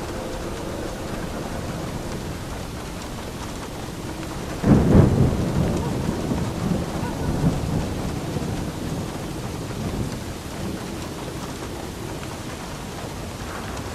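Steady rain falling, with a thunderclap breaking about a third of the way in and rumbling away over several seconds.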